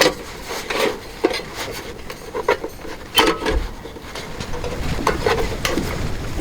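Irregular knocks and scraping of hard objects being handled, with a low rumble building near the end.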